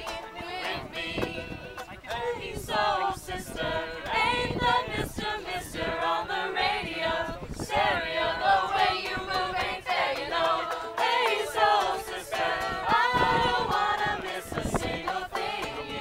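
Group of people singing together, several voices at once.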